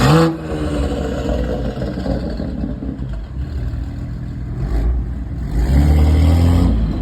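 A car engine revving hard right at the start, its pitch falling away as it pulls off, then another loud engine rev about six seconds in.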